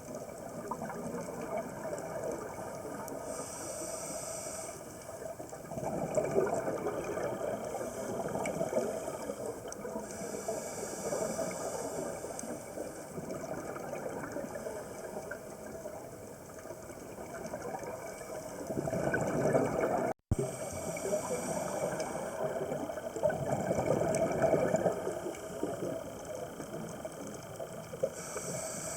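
Underwater sound heard through a camera housing: a steady hiss with the scuba diver's exhaled regulator bubbles rumbling up in swells every several seconds.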